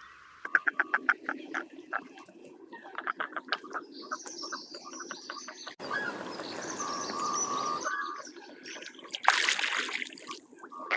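Wild animal calls in quick pulsed series, several a second, with high bird chirps over them. The background noise changes abruptly about six and eight seconds in, as where separate recordings are joined.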